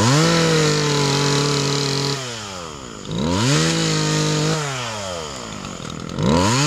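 Chainsaw revving to full throttle three times, about two seconds each, with the pitch sagging slightly under load as it cuts firewood, and dropping back between cuts.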